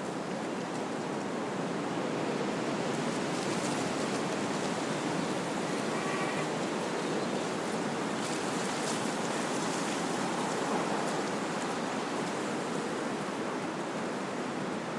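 Wind blowing through trees: a steady rushing of leaves and branches that swells a little after about two seconds.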